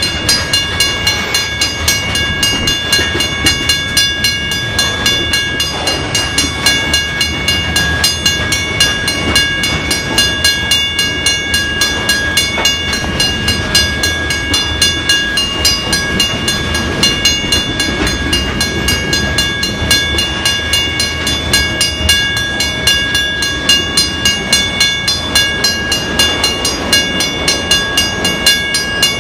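Freight cars of a long Canadian Pacific train rolling past at close range: a steady rumble of wheels on rail with a fast, regular clacking beat, over several sustained high ringing tones.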